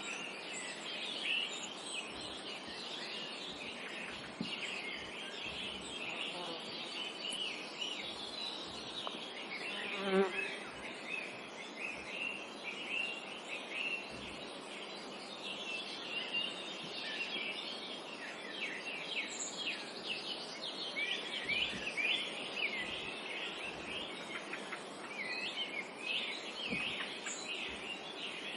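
A chorus of many small birds chirping and singing continuously in a forest. About ten seconds in, a buzzing insect such as a fly or bee passes close by briefly.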